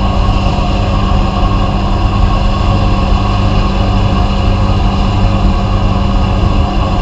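Vapor-blasting or sandblasting equipment running steadily: a loud, even machine hum with a hiss over it.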